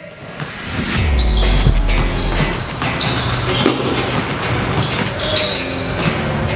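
Basketballs bouncing on a gym court, with many thuds and sneaker squeaks, echoing in a large hall.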